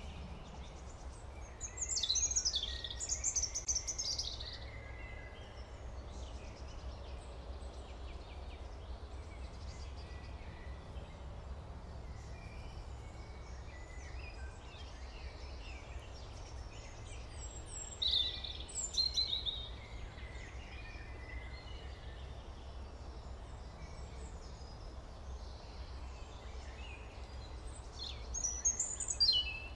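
Birds chirping in three short bursts of rapid, high-pitched calls, over a steady low hum.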